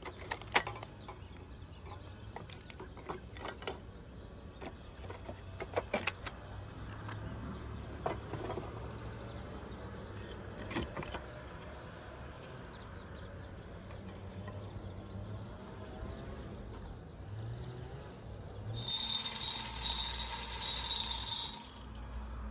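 Coffee beans rattling in a hand-turned roasting drum over a wood fire, with scattered clicks in the first half over a low steady hum. Near the end a loud, high ringing sound lasts about three seconds and then cuts off suddenly.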